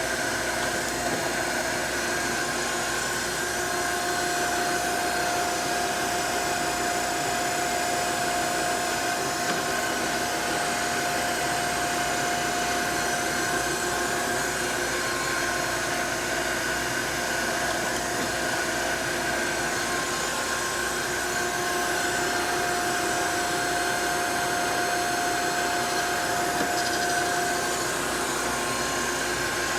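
Gallmeyer & Livingston No. 55 surface grinder running steadily, its grinding wheel spinning through a light pass after a down-feed of a couple tenths. A steady mechanical hum with a higher whine that fades in and out.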